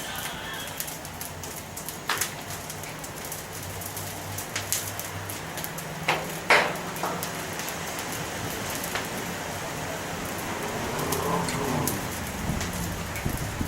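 Bonfire of pine needles and yard debris crackling: a steady hiss with many sharp pops, one louder pop about six and a half seconds in.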